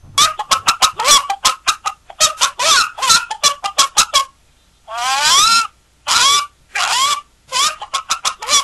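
Chicken clucking: fast runs of short clucks, broken in the middle by three longer squawks, then more clucks.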